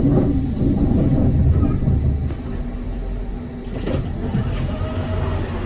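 Amsterdam tram riding along its rails, heard from on board: a continuous low rumble of wheels and running gear, with a steady electric motor hum showing through from about halfway in.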